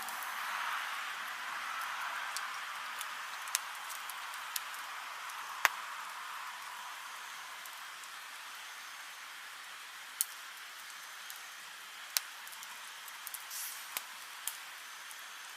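Wood campfire burning: a steady hiss of the flames that slowly eases, broken by about seven sharp crackles and pops, the loudest about six seconds in.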